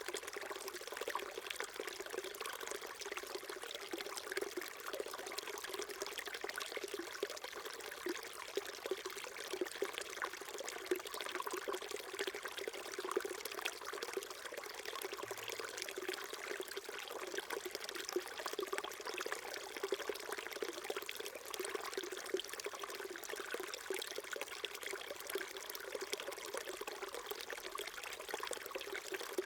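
Small mountain stream burbling steadily over stones, an even babble of running water.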